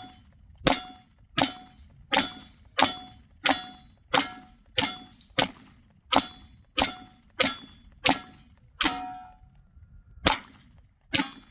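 ZRO FKS-9 9mm pistol firing a steady string of about fourteen shots, roughly one and a half per second, then a short pause and two more shots. Each shot has a brief ringing tail.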